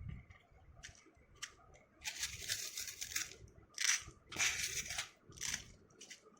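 Irregular scraping and rustling from hands working craft materials, in about six short bursts, the longest lasting just over a second.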